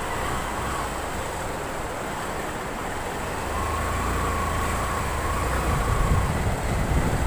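Motorcycle running with road and wind noise, a steady low rumble that grows louder about halfway through. A faint steady whine is heard for a couple of seconds in the middle.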